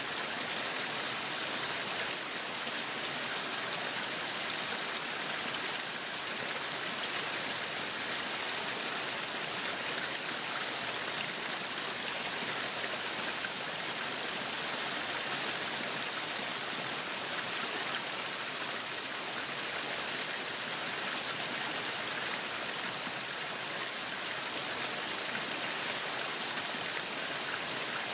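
Meat sizzling on a yakiniku grill: a steady, dense hiss with fine crackling throughout.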